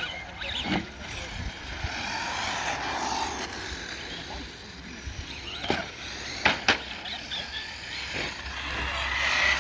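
Brushless electric RC short-course trucks (Traxxas Slash, two-wheel drive) racing on pavement: motors whining up and down with the throttle over tyre noise, and a few sharp knocks from about the middle on.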